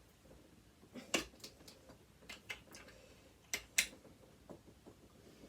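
Scattered sharp clicks and taps of hand tools on a sewing machine's metal parts while working at a stuck part. The clicks come irregularly, with the loudest about a second in and a close pair near the middle.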